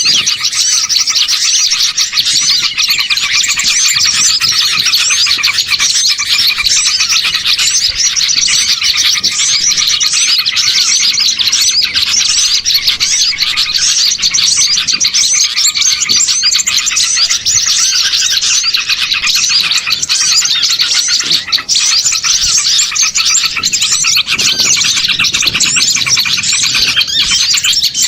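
Bird-lure (pikat) recording of many small songbirds chirping and twittering at once: a dense, unbroken, loud chorus of quick high chirps and trills.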